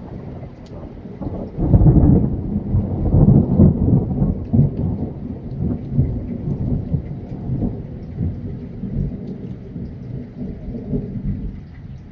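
Thunder rolling: a low rumble that swells sharply about two seconds in, is loudest for the next couple of seconds, then rolls on with crackles and slowly fades.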